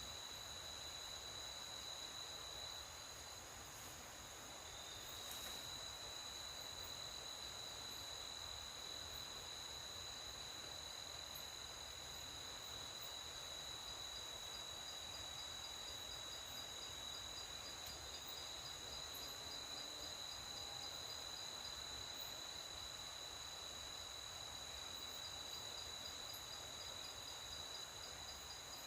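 Night insects trilling in a steady, continuous high-pitched chorus, with a second, faster pulsing trill joining about halfway through.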